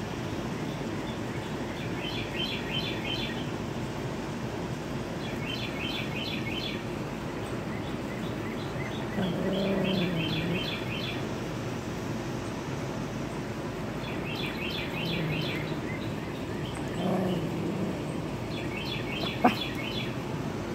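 A songbird sings a short, rapid, trilling phrase five times, a few seconds apart, over a steady background hiss. A lower, drawn-out sound comes about ten seconds in and again in the second half, and a single sharp click sounds near the end.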